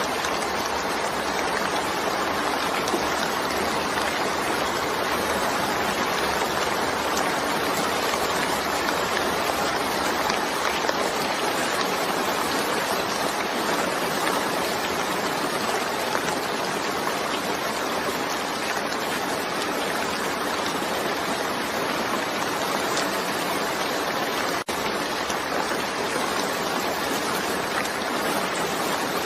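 Steady rain falling, an even continuous hiss with no single drops or thunder standing out, broken by a split-second gap near the end.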